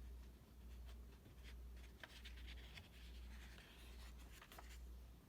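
Faint paper rustling and soft handling clicks of a picture-book page being turned, over a low hum.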